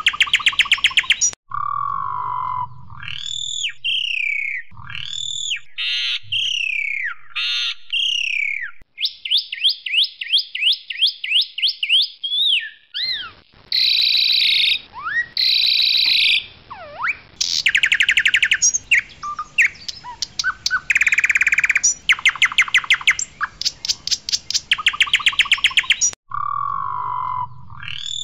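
Asian pied starling (jalak suren) singing loudly, a varied song of whistled notes sliding up and down, fast rattling click trills and harsh buzzy calls, with brief pauses.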